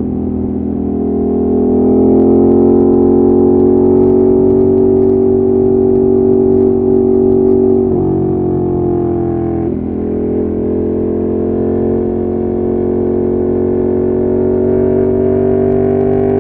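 Ducati Monster 1200's L-twin engine running steadily under way, its revs dipping briefly about eight to ten seconds in before settling again.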